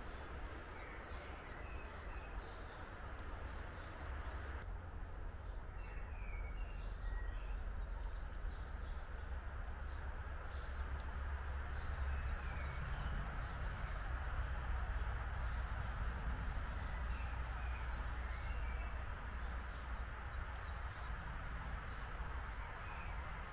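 Woodland songbirds calling with many short, scattered chirps over a steady outdoor hiss and a low rumble that swells through the middle.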